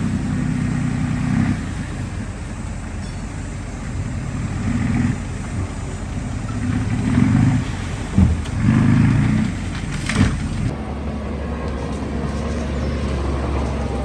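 Diesel engine of heavy earthmoving equipment running, swelling louder in surges about seven to nine seconds in, with a sharp knock around ten seconds. After that it settles into a steady low rumble.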